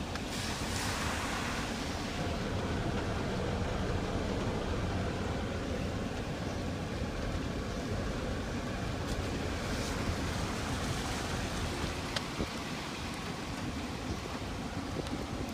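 Steady rush of water on a flooded street, rain and running floodwater, with a few short sharp ticks near the end.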